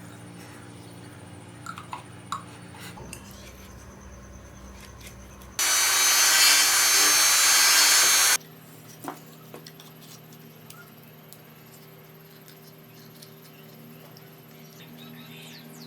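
A handheld power tool runs in one burst of about three seconds, starting and stopping abruptly midway, with a few light clicks and taps before and after it.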